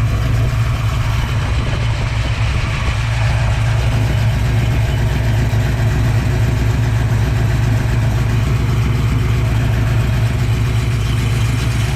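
1967 Ford Mustang's 331 stroker small-block V8 idling steadily, run after a fresh oil change to circulate the new oil.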